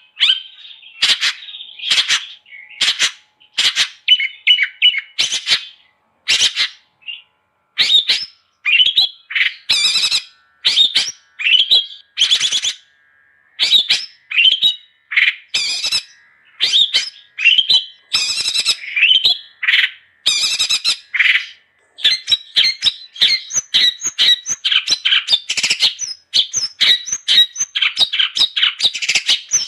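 Long-tailed shrike (cendet) singing in a loud, fast, varied stream of short, harsh chattering notes. Phrases come with short pauses at first, then run together into a dense, continuous chatter about two-thirds of the way through.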